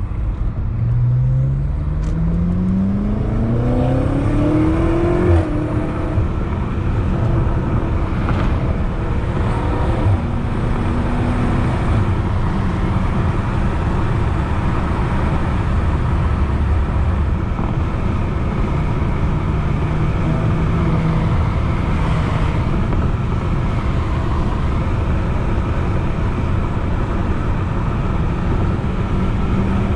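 BMW F90 M5 Competition's twin-turbo V8 with a loud exhaust accelerating through a gear, its note rising for about four seconds until an upshift just over five seconds in. It then settles into a steady cruise with road noise.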